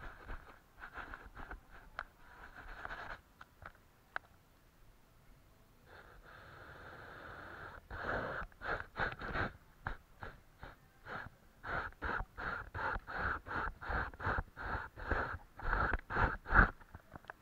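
Paintbrush strokes on paper: short scratchy brushing strokes, a longer even stroke a little past the middle, then quick back-and-forth strokes at about three a second.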